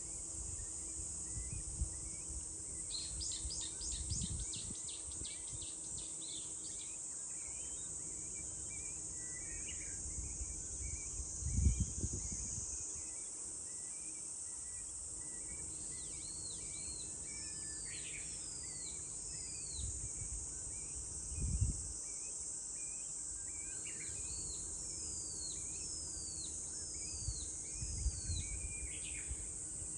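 A steady high-pitched drone of cicadas, with birds calling over it. A fast run of about ten falling notes comes a few seconds in, and later come several series of falling whistled notes, with small chirps between. A few brief low rumbles are heard now and then.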